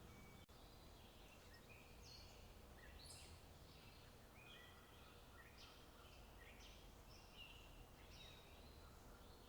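Faint outdoor ambience of small birds calling, many short high notes overlapping throughout, over a low steady rumble.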